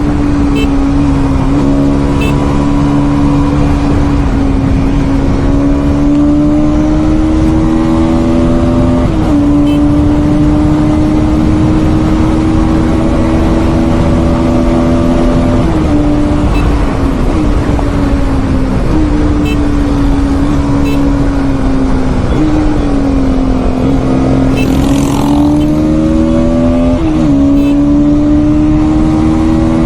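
Bajaj Pulsar NS200's single-cylinder engine running at steady high revs on a highway, heard from the bike itself. The note holds steady with a few brief dips in pitch that climb back, and a short whoosh of rushing air about 25 seconds in.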